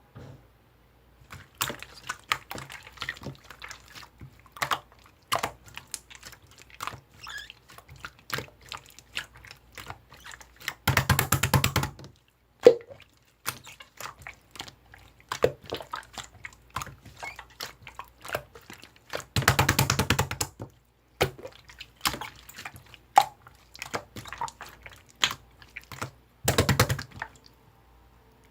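Clear slime being squished and poked by hand: scattered wet clicks and pops, with three louder bursts of rapid crackling, each about a second long.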